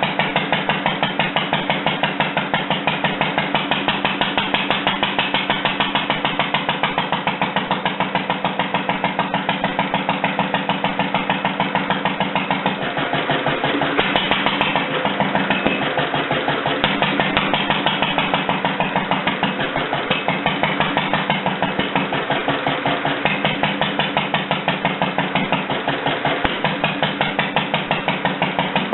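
Rebuilt International Harvester LA single-cylinder engine running steadily, with an even exhaust beat of about three firings a second. Its note shifts briefly about halfway through.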